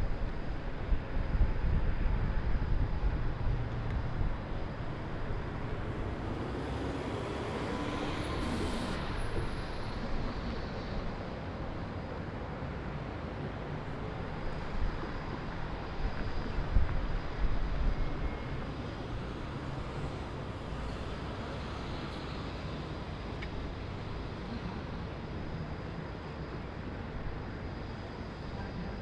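Steady hum of distant city traffic, with wind buffeting the microphone in the first few seconds. About a third of the way in, a passing vehicle swells and fades, its pitch falling.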